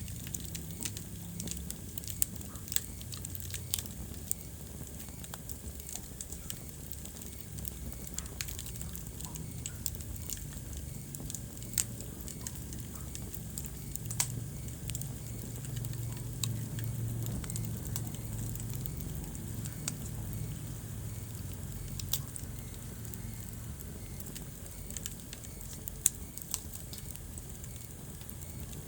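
Wood fire crackling in a fireplace: irregular sharp pops and snaps over a low, steady rumble of the flames, with a few louder pops scattered through.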